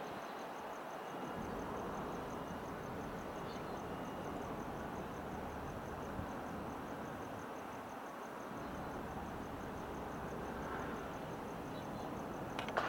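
A departing diesel-electric locomotive-hauled train heard at a distance as it pulls away, a low rumble over steady outdoor background noise. A faint high chirp pulses evenly throughout.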